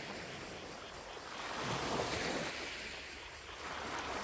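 Gentle lake waves washing onto the shore, one wave swelling and breaking about halfway through and another building near the end.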